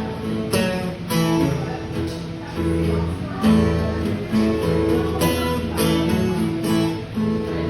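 Acoustic guitar strumming chords, the instrumental intro before the singing comes in.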